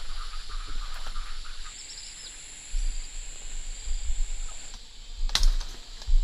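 Outdoor country background: a steady high insect-like buzz for about three seconds in the middle, a few short high chirps, a low rumble throughout, and one sharp click near the end.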